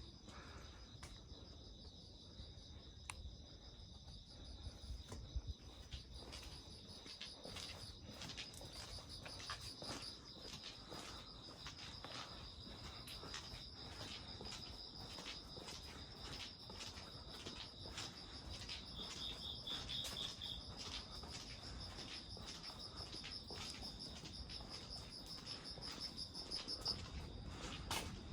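Crickets chirping in a steady, high, continuous trill that stops near the end, over scattered light ticks and taps.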